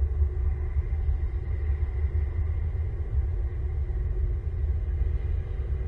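Steady low rumble with a faint, even hum above it.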